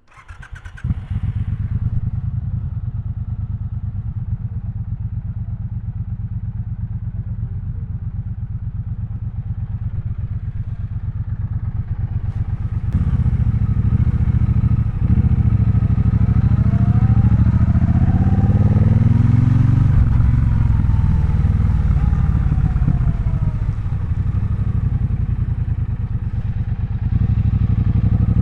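Triumph Bonneville Bobber's 1200 cc parallel-twin engine, first running steadily at low revs, then from about halfway through pulling harder and louder, its pitch rising as the bike accelerates, with a brief dip like a gear change.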